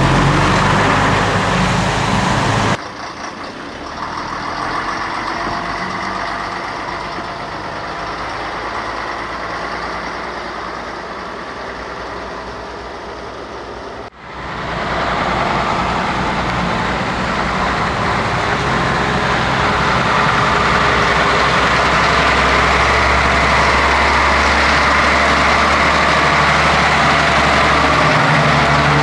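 Scania truck diesel engines running steadily. The sound drops abruptly about three seconds in and comes back louder about fourteen seconds in.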